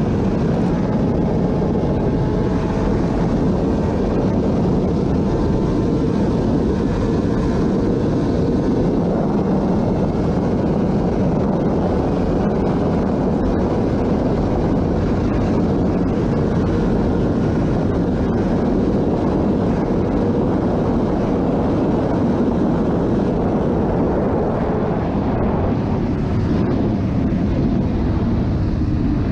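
Superbike engine running hard at very high speed with heavy wind rush over the microphone; the engine note drops away in the last few seconds as the bike slows.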